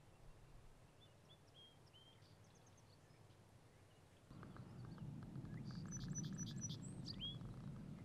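Faint wild birds chirping outdoors over a low background hum. About halfway through the hum grows louder, and near the end a cluster of sharp, high chirps and a few rising and falling whistled notes stand out.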